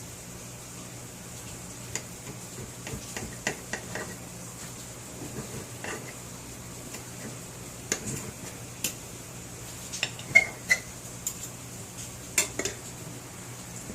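Cutlery clicking and scraping on a plate as grilled venison is cut for a bite, with scattered sharp clinks.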